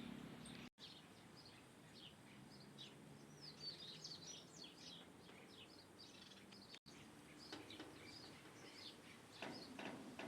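Small birds chirping faintly, a rapid string of short high calls and twitters. The sound cuts out for an instant twice.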